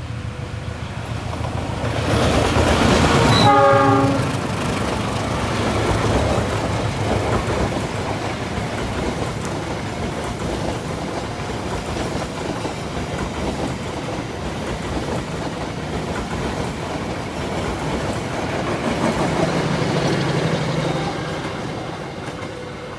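A passenger train going past. It gives a brief horn blast about three and a half seconds in, at the loudest moment of the rush, followed by a steady rumble and clatter of wheels on the rails that fades near the end.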